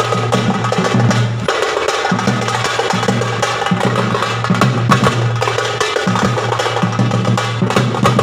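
Drum set played in a fast, dense rhythm, the Trichy 'mirattal adi' beat, over a low steady tone that drops out briefly a few times.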